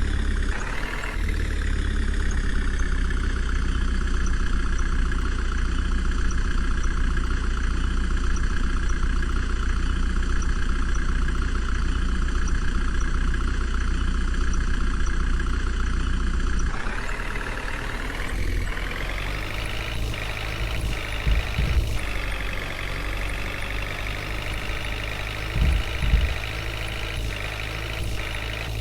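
Diesel engine of a JCB backhoe loader running steadily, then changing note and getting a little quieter about seventeen seconds in. A few short thuds follow later on.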